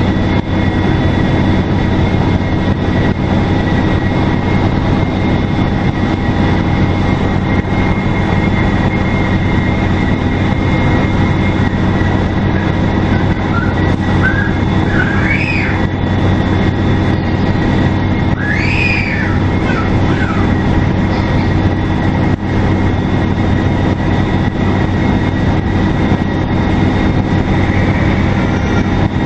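Detroit Diesel Series 50 four-cylinder turbodiesel in a NABI 40LFW transit bus running steadily under way, with its turbocharger giving a steady high whistle over the engine drone. A couple of short squeals rise and fall about midway through.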